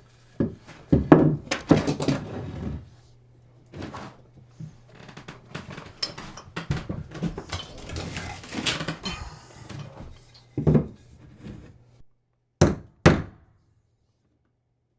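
Irregular knocks and thunks of wood pieces and hand tools being handled and tapped against the wall framing, with two sharp knocks close together near the end.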